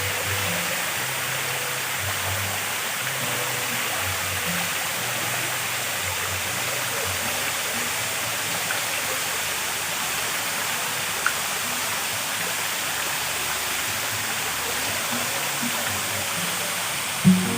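Steady rushing of running water, with a sharp knock near the end.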